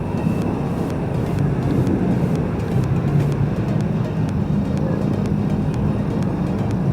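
Heavy city road traffic at a busy intersection: engines running and tyre noise in a steady hum, with a faint, regular ticking over it.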